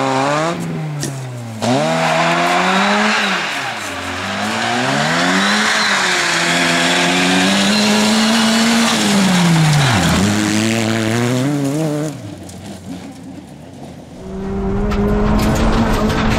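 Opel Astra GSi rally car's 2.0-litre engine revving hard on gravel, over a hiss from the tyres and stones. Its pitch climbs and drops sharply several times as the driver lifts and changes gear. Near the end it becomes the louder, deeper engine rumble heard inside the car's cabin.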